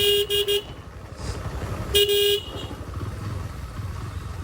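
A vehicle horn honking: three quick toots, then one longer toot about two seconds later, over a low rumble of road and engine noise.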